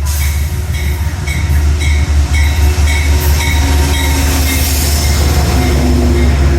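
A Metro-North train led by a GE P32AC-DM dual-mode locomotive running by. Under a loud, steady low rumble there is a quick run of short high ticks, about three a second.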